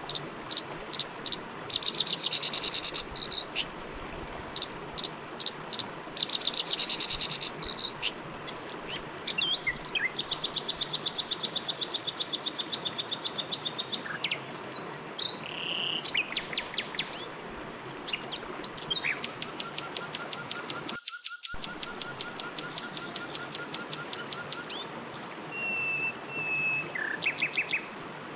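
Several birds singing and calling in quick chirps and trills, with fast buzzing pulse trains, over a steady rush of flowing river water. The sound cuts out for a split second about two-thirds of the way through.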